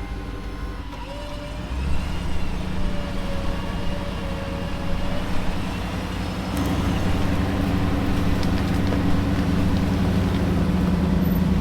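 A vehicle engine running, its pitch and level stepping up about two seconds in and again a little past the middle, then held steady and louder.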